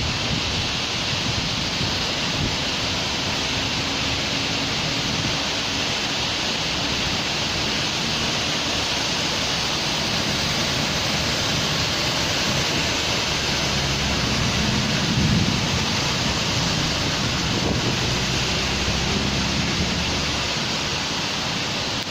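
Steady heavy rain, an even hiss with no let-up. About two-thirds of the way through, a low rumble swells briefly under it.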